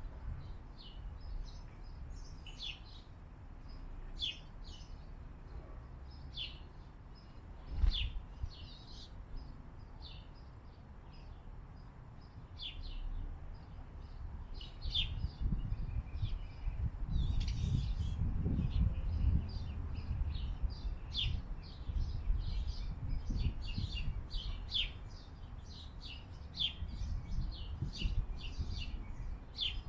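Small birds chirping over and over, many short sharp high chirps from more than one bird. There is a single knock about eight seconds in, and a low rumble builds in the second half.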